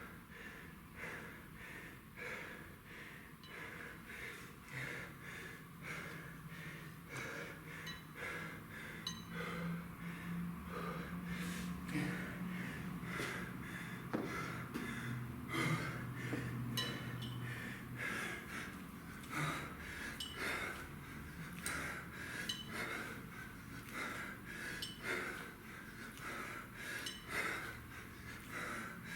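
A man breathing hard and rhythmically from exertion during a kettlebell set, with short forceful breaths about twice a second.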